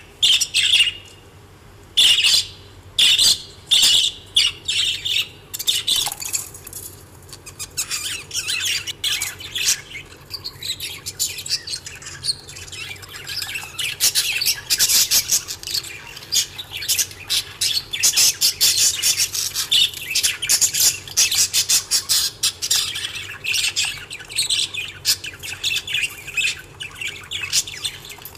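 A flock of small pet parrots, budgerigars and lovebirds, chirping and chattering, with a few loud squawks in the first few seconds. The chatter thins out for a few seconds, then grows dense again about halfway through.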